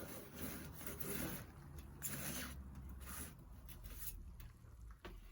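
Faint, intermittent scraping and rubbing: a pizza peel sliding over the stone floor of a wood-fired oven as the pizza is turned, in several separate strokes.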